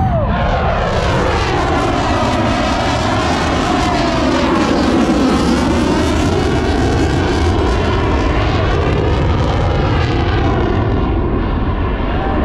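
Aircraft flying past low overhead: a loud, continuous engine noise with a phasing, whooshing quality that sweeps up and down as the plane moves.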